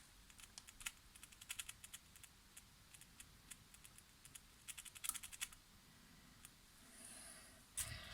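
Faint, light clicks and taps in irregular little clusters, from small parts being handled on a workbench, with a brief louder rustle near the end.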